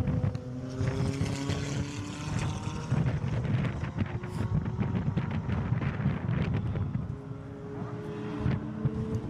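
Supercar engine running hard on a track, its pitch climbing slowly, under heavy wind buffeting and rumble on a phone microphone.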